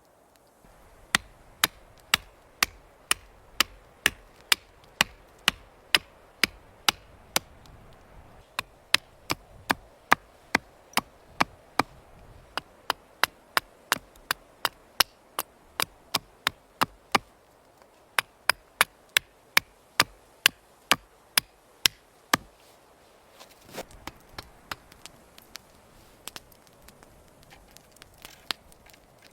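Wood being chopped with a blade: quick, sharp blows about two a second for some twenty seconds, then lighter, irregular knocks near the end.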